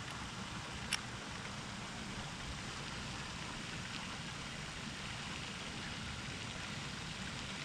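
Steady low background hiss, with one short sharp click about a second in.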